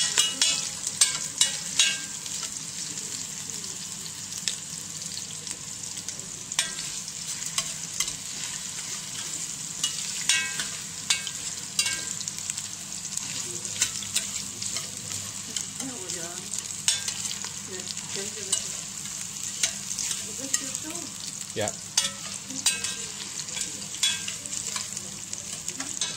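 Sliced ginger and spring onion sizzling steadily in hot vegetable oil in an enamelled cast-iron pot, being fried gently to soften without browning. A metal slotted spoon stirring them clinks and scrapes against the pot every so often.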